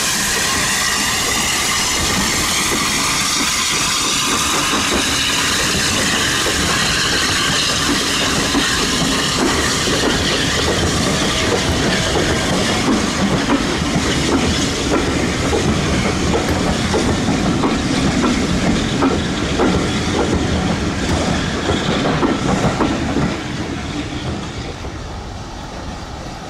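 A steam-hauled train running past, its carriage wheels clattering over the rail joints in a rapid clickety-clack. The sound falls away near the end.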